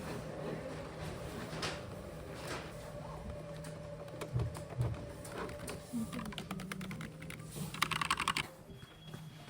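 Typing on a computer keyboard: scattered key clicks, then a quick run of keystrokes near the end.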